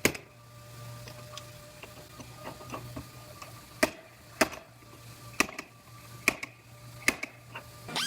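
Sharp knocks, about nine of them, irregularly spaced with a cluster in the second half, over a low steady hum.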